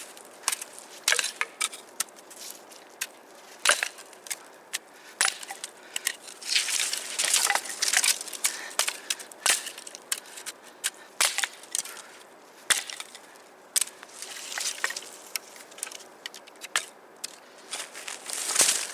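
Dry wood snapping and crunching: many sharp irregular cracks with stretches of rustling, louder about a third of the way in and again near the end.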